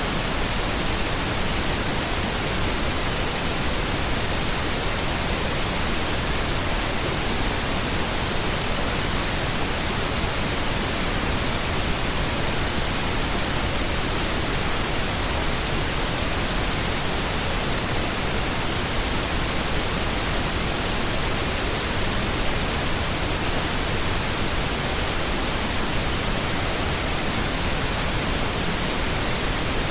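Pink noise: a steady, even hiss spread across the whole range with no changes, like a low ocean-like rush.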